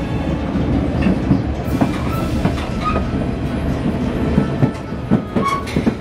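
White Pass & Yukon Route narrow-gauge train running on the track, heard from aboard: a steady rumble with rapid clickety-clack of the wheels over the rail joints, and a few brief high squeaks.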